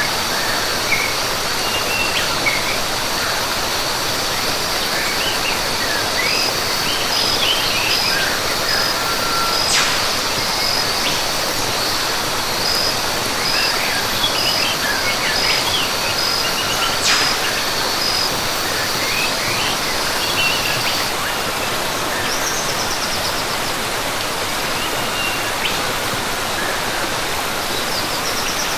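Rainforest ambience: a steady rush of falling water under scattered bird chirps and an insect's high, steady buzz that stops about two-thirds of the way through. A few sharp clicks stand out now and then.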